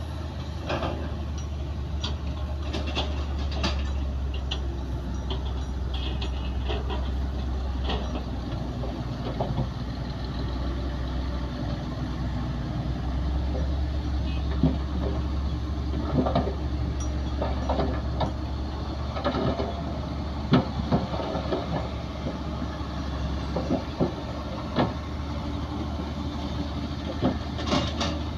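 Heavy diesel earthmoving machinery running steadily with a low hum, with scattered sharp clanks and knocks throughout.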